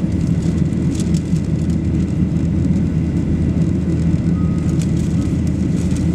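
Steady, loud low rumble of a Boeing 737-800 jet airliner's engines and airflow, with a faint steady high tone running through it.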